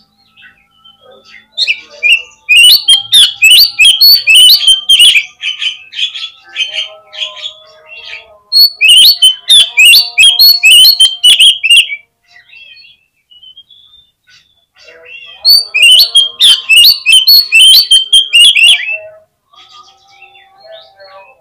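Oriental magpie-robin (kacer) singing in three loud bursts of rapid, varied notes, each about three seconds long, with softer notes in the pauses between.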